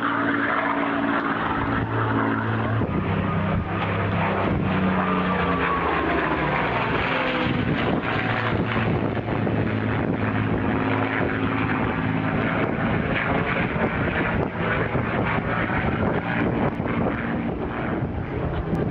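Hispano HA-1112 Buchón's Rolls-Royce Merlin V12 engine and propeller running in flight as the fighter passes. The pitch drops a few seconds in as it goes by, then the engine sound carries on steadily.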